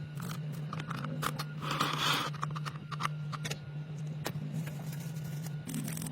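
Metal parts being handled: a string of sharp clicks and knocks, with a longer scrape about two seconds in, over a steady low hum.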